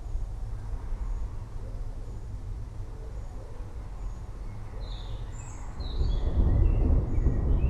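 Forest birds chirping over a low, steady rumble of distant thunder that swells louder about six seconds in; a faint high note repeats about once a second.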